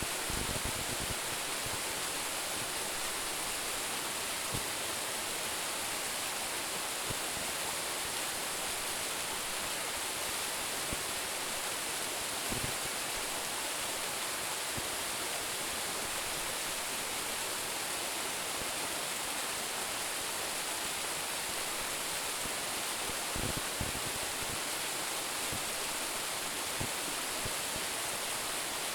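Water falling over a small waterfall of about a 10-metre drop: a steady rushing hiss, with a few faint low thuds.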